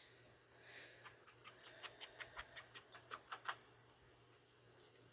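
Faint, quick run of light ticks and clicks, about five a second, from hands handling paper and craft supplies at a desk; they stop about three and a half seconds in.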